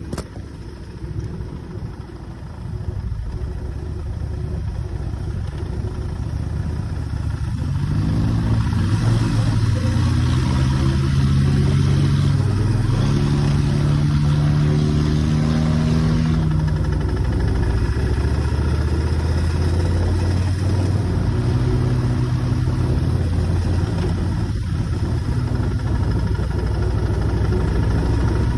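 Motorcycle engine pulling away and accelerating through the gears, its pitch climbing in steps with breaks at the shifts, then running steadily at cruising speed.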